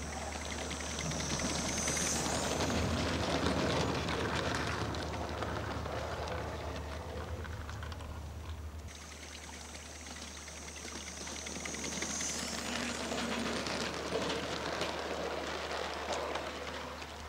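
16mm scale model locomotive running on a garden-scale track, passing close by twice about ten seconds apart. A rushing, hissing noise swells each time it passes, with a thin high whine that bends upward.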